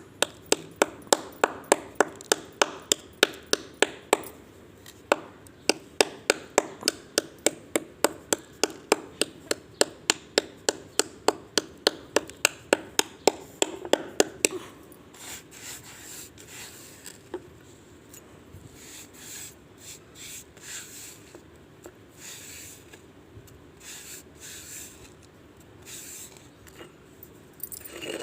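Slate pencil being crunched: sharp, regular cracks about three a second for roughly the first half, giving way to softer, irregular grinding and rubbing sounds.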